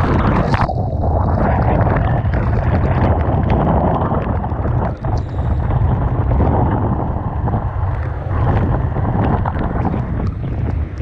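Typhoon wind buffeting the microphone with a heavy, steady rumble over rough, crashing sea, and frequent sharp spatters of spray and water striking the camera.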